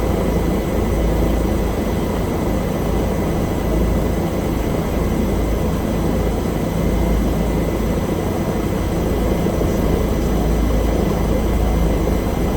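Bell helicopter running in flight: a steady, unbroken rotor and engine drone with a strong low rumble and a thin high whine over it.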